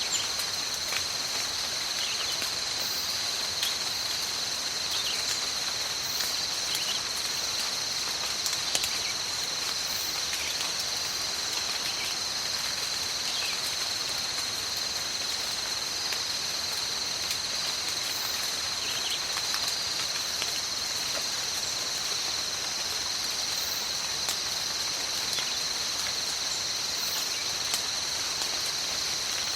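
Steady rain in a tropical forest, an even hiss, under a constant high insect drone held on two steady pitches, with faint short chirps now and then.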